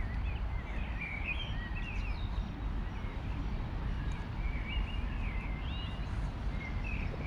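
Small songbirds chirping in short quick calls that rise and fall, in two spells, about a second in and again past the middle, over a steady low rumble.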